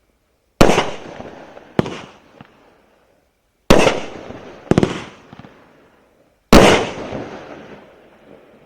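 A 16-shot 30 mm cake firework firing: five loud bangs at uneven gaps of one to three seconds, each trailing off over a second or two, with a few smaller cracks in between.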